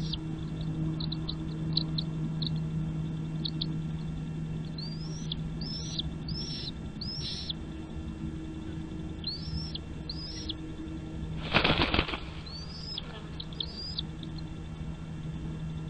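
Bird chirping in a series of short, high, hooked calls, with a brief loud flutter about twelve seconds in, over a steady low hum.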